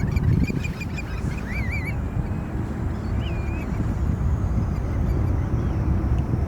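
Steady low rumble of wind on the microphone and distant aircraft noise at the airfield. Bird calls come through it: a quick run of high chirps in the first second, then a few wavering calls.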